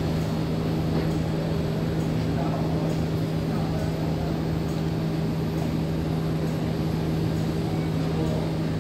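Steady hum of an MTR East Rail Line R-Train electric train, a constant low tone under even running noise, with no change in pitch or level.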